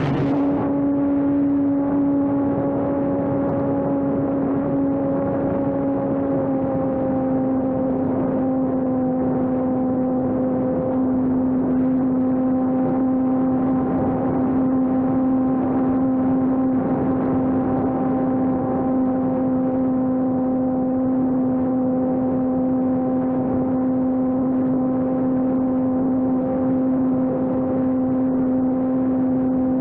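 Electric RC airplane's brushless motor and propeller running at steady throttle: one unbroken, even-pitched drone whose pitch sinks slightly over the first several seconds, then holds.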